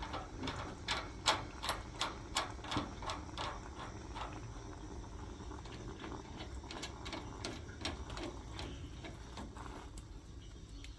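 Quick, sharp metallic clicks of the tempering valve's fittings being tightened back up after its hot-water filter is refitted, about two or three a second at first, then sparser and fainter.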